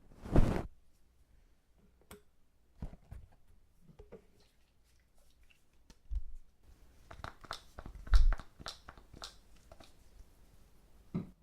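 Close-miked crackling, scraping and rustling of ear-cleaning tools and fingers working in a silicone ear model. A louder rub comes about half a second in and another near the eight-second mark, with a run of short clicks around it.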